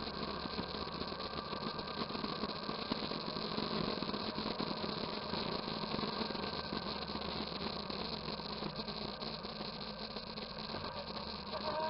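Motorcycle engine running steadily at low revs, with the revs starting to rise near the end.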